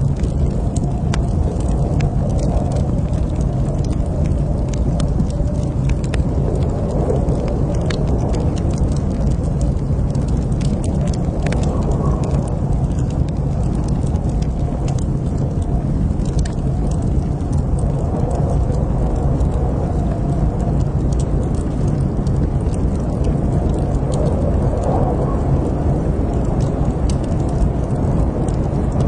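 Wood fire burning in a fireplace, with a steady low rumble and many small scattered crackles and pops.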